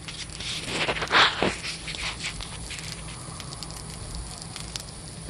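Pancake batter and link sausages sizzling and crackling on a hot propane griddle top, with a louder rush of noise about a second in.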